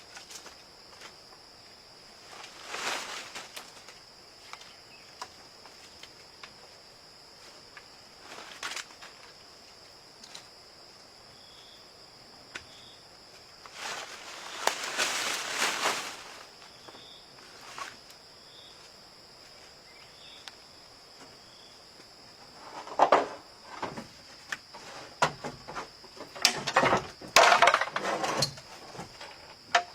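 Steady high-pitched drone of insects, with brief bursts of rustling. Near the end comes a run of sharp knocks and scrapes from handling material.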